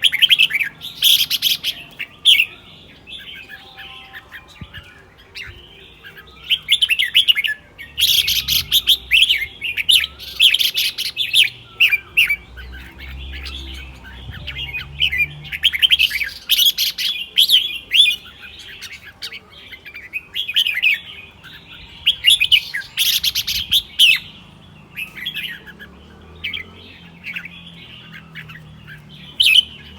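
Red-whiskered bulbul singing: loud, chirpy song phrases come every few seconds, with softer calls in between.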